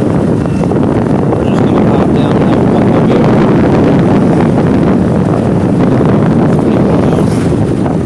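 Steady wind rush over the microphone of a moving motorbike, with the motorbike's engine running underneath.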